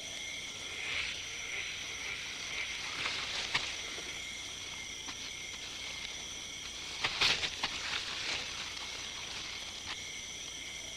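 Rainforest insect chorus, a steady high buzz of several pitches, with irregular rustling and crackling of foliage, loudest a little past the middle.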